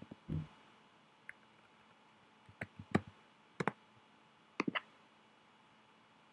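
Scattered computer keyboard and mouse clicks from typing into a form and submitting it: a soft low thump just after the start, then a few separate clicks, with a close pair and a quick run of clicks around the middle.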